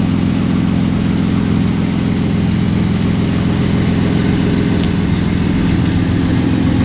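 BMW M4 F82's twin-turbo straight-six, fitted with a Milltek exhaust, idling steadily.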